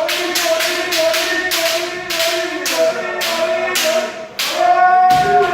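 Kendo practitioners yelling long, drawn-out kiai over a rapid series of sharp cracks from bamboo shinai strikes and stamping feet, about two to three a second.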